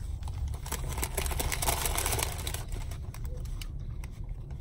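A man biting into and chewing a crispy breaded chicken sandwich close to the microphone: crunching and mouth clicks, thickest between about one and two and a half seconds in, over a low steady rumble.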